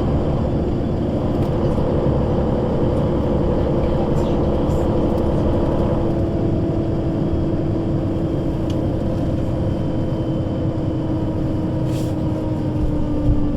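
Engine and Voith automatic gearbox of a Solaris Urbino 12 III city bus running steadily under way, heard on board. The steady whine sinks slightly in pitch near the end.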